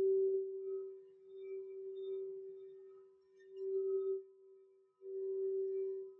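A singing bowl sounding one steady low ringing tone that swells and fades in waves, cutting out briefly about five seconds in and then sounding again.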